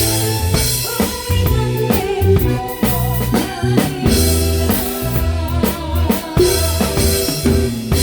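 A live band playing a song at rehearsal. A drum kit, with kick drum and snare hits, keeps a steady beat under sustained bass notes and other pitched instruments.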